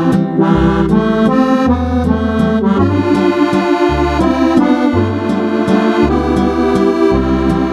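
Roland FR-8X digital accordion playing a tune with a Cordovox-style vintage electronic accordion sound: chords and melody held over a walking bass line.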